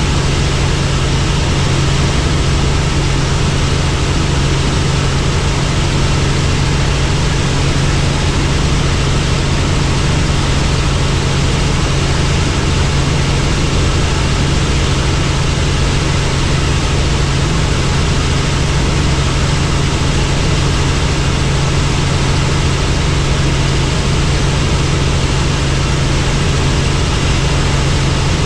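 Helicopter engine and rotor noise, steady and unchanging: a strong low hum under an even, broad rush.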